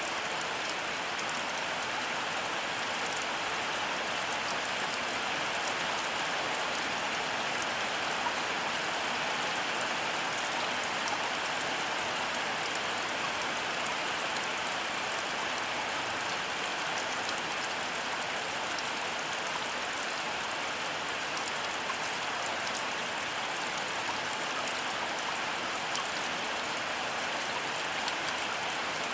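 Heavy rain falling steadily, an even dense hiss of drops on surfaces with fine pattering throughout.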